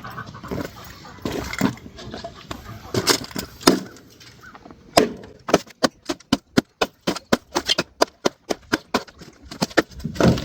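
Frozen water being broken up: a few separate sharp knocks, then about halfway through a fast, even run of sharp knocks, about three or four a second, as ice is struck out of a frozen container.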